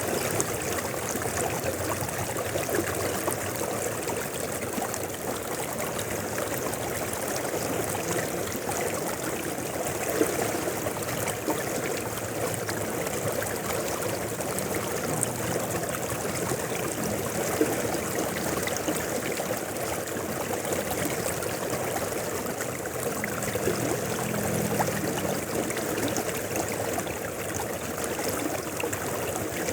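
A mountain river flowing, a steady rush of water.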